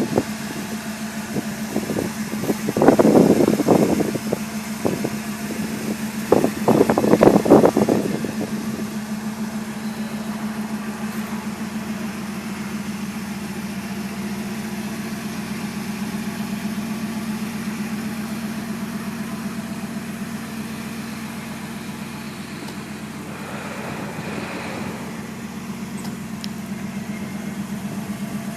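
Turbocharged 5.8 L Ford V8 of a pickup idling steadily. Two louder, rougher bursts of noise come about three and seven seconds in.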